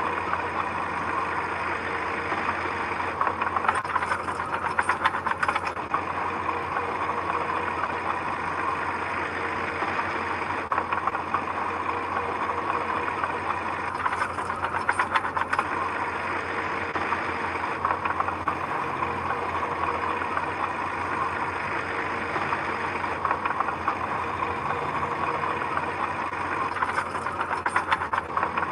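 Heavy machine's engine running steadily, with three short bursts of rattling clatter about eleven to thirteen seconds apart.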